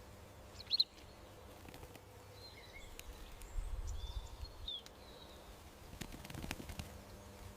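Small backyard birds calling: one sharp high chirp about a second in, then a few thin whistled calls near the middle, over a faint steady background with a low hum.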